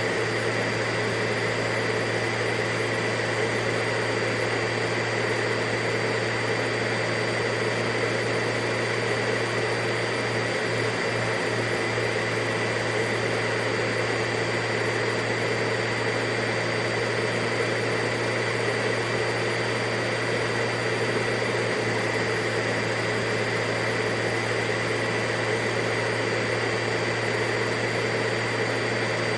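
Vacuum cleaner running continuously and evenly, a steady whirring hum with a high whine, with no change in speed or load.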